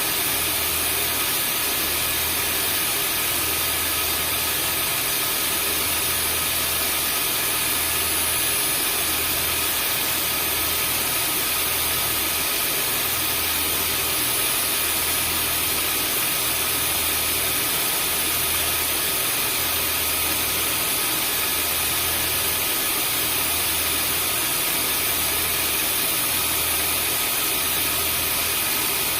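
Vacuum cleaner running steadily: an even motor hiss with a few steady whining tones on top and a low hum that pulses about every two seconds.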